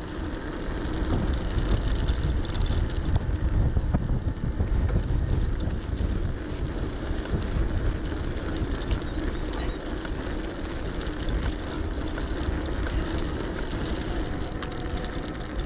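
Riding an electric bike: wind rumbling on the action camera's microphone and tyres rolling, with a faint steady hum underneath.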